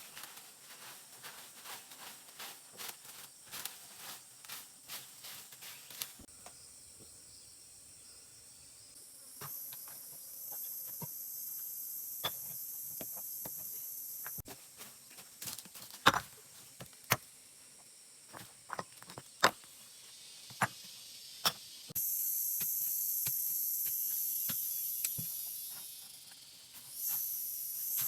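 A high, steady chirring of insects that starts and stops several times, over scattered sharp knocks and clicks. The first few seconds hold a run of evenly spaced clicks, about three a second.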